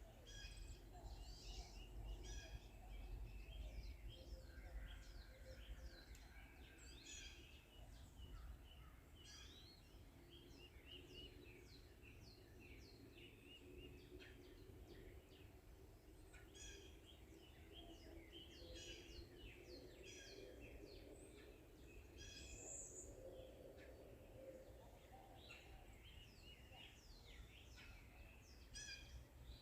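Faint forest bird chorus: several songbirds chirping and trilling in short overlapping phrases, over a steady low rumble.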